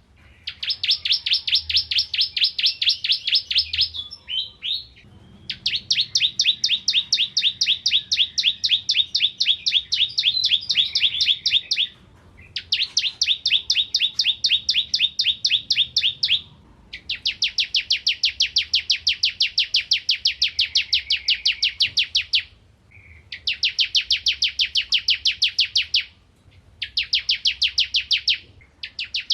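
Bar-winged prinia (ciblek kristal) singing in loud, rapid, even trills of high repeated notes, each bout lasting several seconds with short pauses between.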